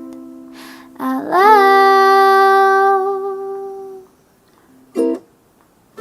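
A ukulele chord rings out and fades. About a second in, a solo voice sings the song's last word, sliding up into one long held note that fades away around four seconds in. Two short pitched sounds follow near the end.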